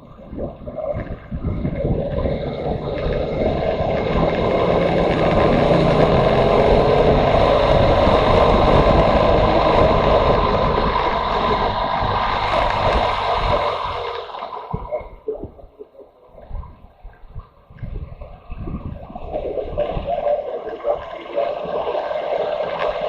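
Motorcycle riding at speed, with the engine running under a loud rush of wind buffeting the microphone. The sound is strongest for the first fourteen seconds, drops off for a few seconds, then builds again near the end.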